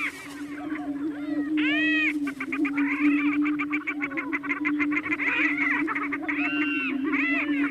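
A chorus of displaying prairie chickens: a steady low booming hum runs underneath, with many short swooping calls and a fast run of cackling notes above it, from about two to five seconds in.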